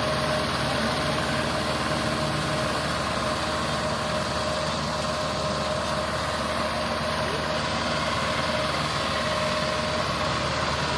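An engine running steadily at an even speed, with a steady high tone held above the engine note.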